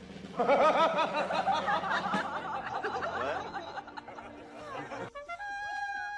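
Voices laughing and snickering. About five seconds in, a sudden cut to a steady, held high tone.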